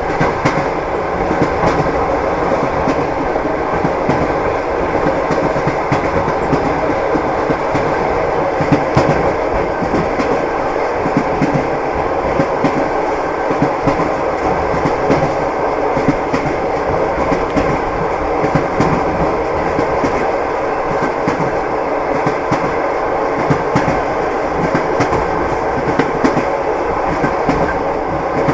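Train in motion heard from inside the carriage: a steady rolling rumble with the wheels clicking over the rail joints.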